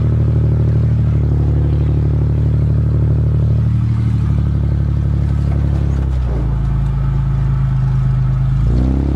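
Dodge's 3.3-litre V6 engine running steadily as the car is driven. The engine note drops about six seconds in and rises again near the end.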